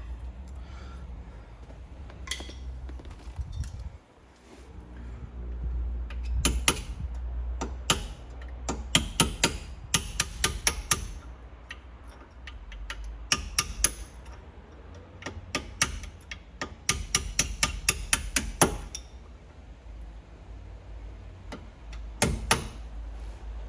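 Sharp metallic clicks and taps in quick bursts from hand work on a Brembo brake caliper as its pad-retaining R-clips and pins are worked loose.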